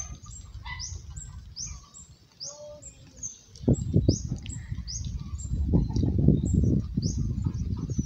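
A bird calling over and over in short, high, falling chirps, about two a second. About halfway through, a louder low rumble comes in under the calls.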